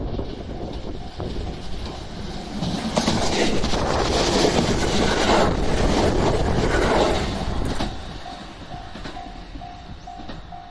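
Level-crossing warning bell ringing in even pulses while a train passes over the crossing, its wheels clattering on the rail joints for about five seconds and covering the bell. The bell is heard clearly again once the train has passed.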